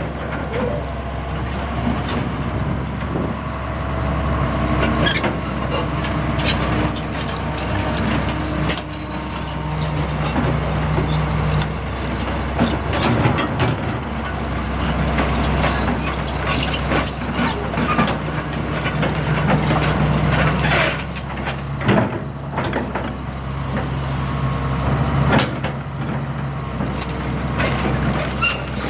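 John Deere 270LC excavator working: the diesel engine runs steadily under load while metal parts clank and squeal in irregular bursts throughout, with short high-pitched squeaks.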